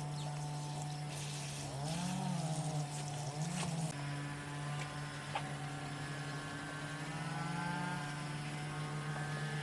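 A small motor or engine running steadily with a low hum, its pitch rising and falling briefly a few times.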